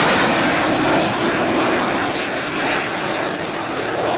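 Military display jet making a fast, low pass, its engine noise loud and filling the air, easing off a little toward the end.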